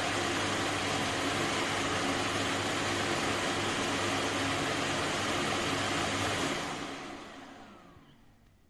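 Self-emptying dock of a Dreame D20 Pro Plus robot vacuum running its auto-empty cycle: a loud, steady suction motor that pulls the dust from the robot into the dock's bag. About six and a half seconds in, the motor switches off and spins down with a falling whine, fading out over two seconds.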